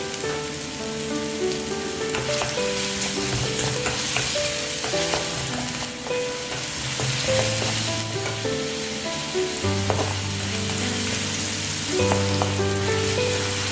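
Food sizzling as it fries in a pan, with a utensil clicking against the pan now and then. Background music with held melody and bass notes plays underneath.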